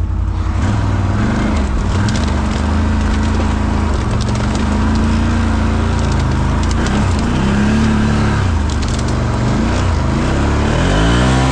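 ATV engine revving up and down under load, its pitch rising and falling again near the end, with wood and brush cracking as the quad pushes through.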